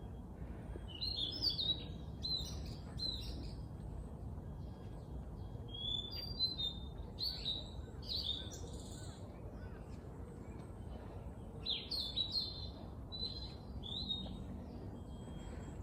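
Small birds chirping in quick runs of short high notes, in three spells, over a steady low background rumble.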